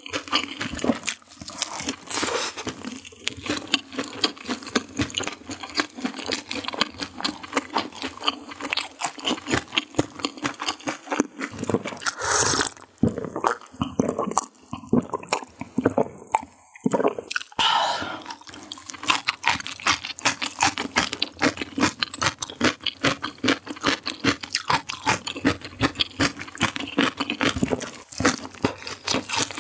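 Close-miked chewing and crunching of fried chicken, a dense run of wet, crisp mouth sounds. About midway the chewing stops for several seconds of swallowing gulps of cola, then crunchy bites and chewing resume.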